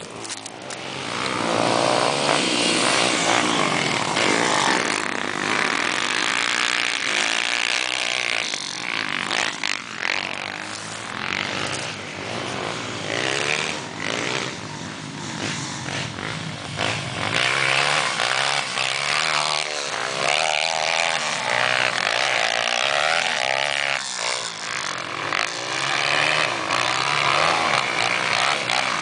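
Motocross motorcycle engines revving as the bikes race, their pitch rising and falling over and over, with overlapping engine notes.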